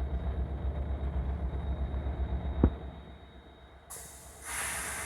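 Commuter train at a station: a low rumble pulsing several times a second, with one sharp knock about halfway through. The rumble fades, and a loud steady hiss comes in near the end.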